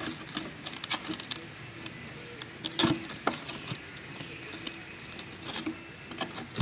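Scattered light clicks and taps of hand work at a roof vent on a shingled roof, with one louder knock about three seconds in, over a faint steady hum.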